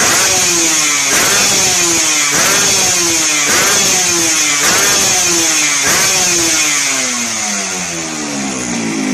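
Yamaha RX-King's two-stroke single-cylinder engine revved through an aftermarket exhaust: about six quick throttle blips roughly a second apart, each falling back, then settling to idle near the end.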